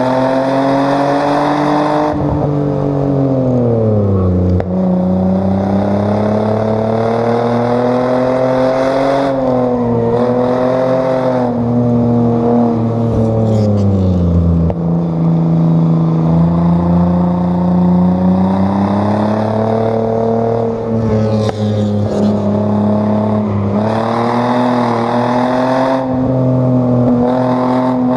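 Chevrolet Omega 3.0's straight-six engine driven hard on a race track, its pitch climbing under acceleration and dropping sharply several times as the driver lifts and brakes for corners.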